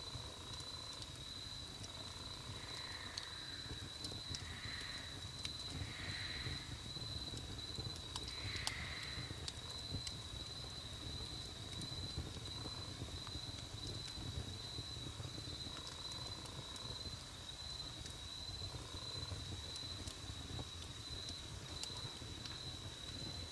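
Wood campfire burning with a low rumble and sparse crackles and pops. A steady high insect trill runs over it, and a few soft animal calls come in the first ten seconds.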